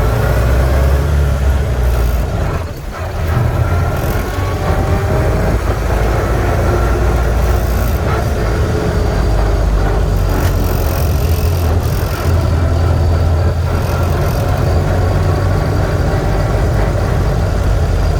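A 1926 fuel truck's engine running under way, rising in pitch at first as it picks up. It drops off briefly about three seconds in, then runs steadily on.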